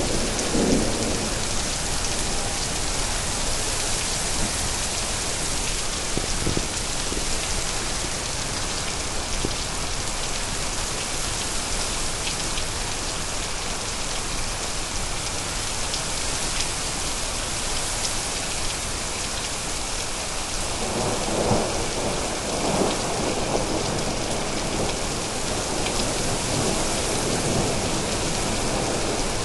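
Steady heavy rain falling, with rolls of thunder rumbling at the start and again about twenty seconds in.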